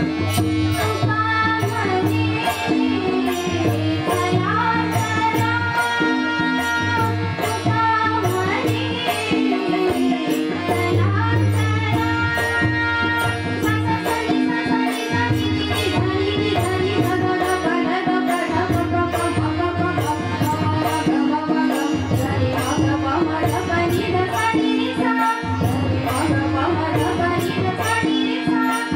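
A group singing a Marathi devotional bhajan in long, held phrases, accompanied by tabla and small hand cymbals keeping a fast, even beat over a sustained harmonium drone.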